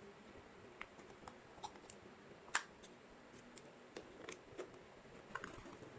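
Faint, scattered plastic clicks and taps from a K-Cup capsule adapter being handled and fitted into a HiBREW H1B coffee machine, the sharpest click about two and a half seconds in.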